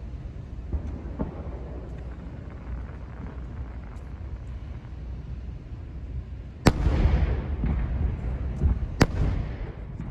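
Aerial fireworks bursting overhead: a steady low rumble of bursts and echoes, then two sharp, loud shell bangs about two seconds apart in the second half, each trailing off in a rumble and crackle.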